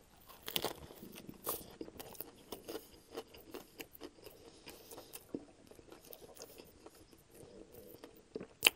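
Close-miked chewing of a mouthful of Subway sub: faint, scattered wet mouth clicks and smacks, with one sharper, louder click near the end.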